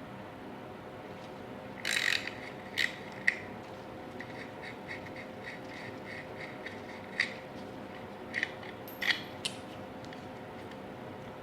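Hand tools working on the Ducati 916 engine's side-casing bolts: a few sharp metal clinks, with a run of light clicks at about three a second in between.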